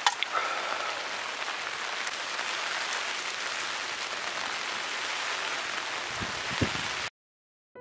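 Heavy rain falling steadily, with a sharp knock of drips at the very start; the sound cuts off suddenly about seven seconds in.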